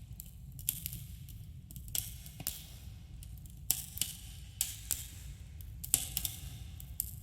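Campfire crackling: irregular sharp pops and snaps of burning wood, one or two a second and a few louder than the rest, over a steady low rumble of the flames.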